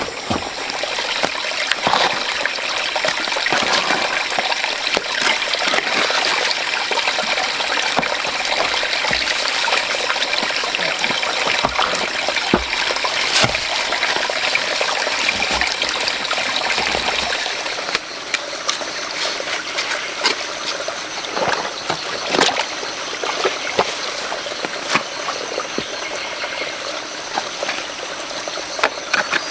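Water trickling and running, with scattered splashes and short knocks. It eases a little about two-thirds of the way through.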